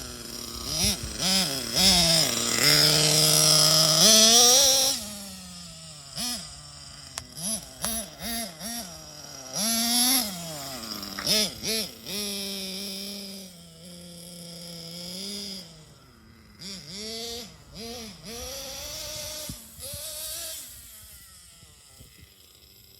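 Nitro RC car's small glow-fuel engine being blipped and revved, its buzzy pitch swinging up and down about twice a second. It is held at high revs for a couple of seconds early on, then the blips get quieter toward the end.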